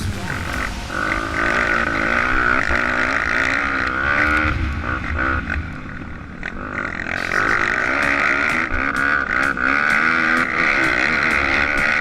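Pit bike engine running hard, its revs rising and falling over and over, with a dip about halfway through.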